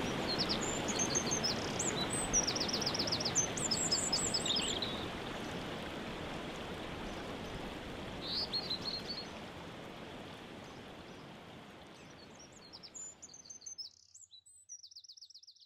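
Waterfall rushing, with songbirds chirping and singing quick trills over it. The water fades out gradually through the second half, leaving only the birds near the end.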